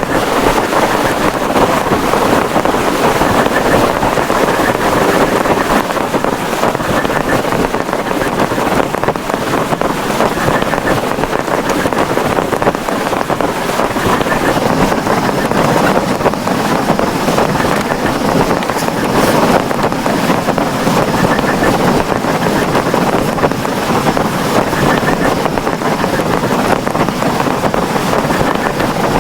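Heavy rain pouring down steadily and hard, a dense unbroken hiss with no let-up.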